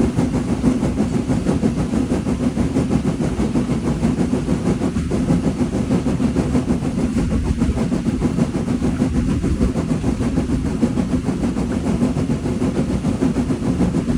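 Steam locomotive running with a loud, steady low rumble and a rapidly flickering level, no pauses.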